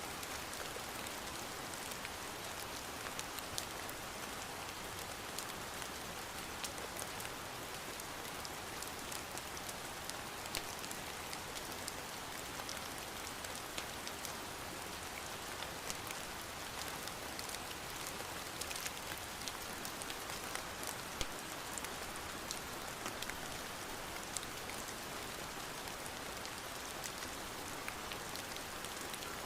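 Steady rain falling, an even hiss with many scattered sharp ticks of drops.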